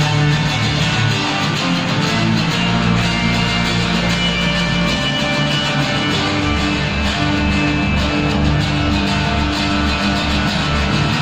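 A band playing music, with guitar over a pulsing bass line; a long low bass note is held for a few seconds near the start before the pulse returns.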